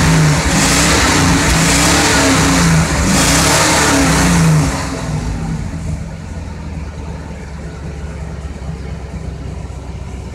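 A 2001 Mercury Mountaineer's 5.0 L V8 is held at high revs, surging slightly, to burn a Seafoam treatment out through the exhaust. About four and a half seconds in the throttle is released and the engine drops back to a quieter idle.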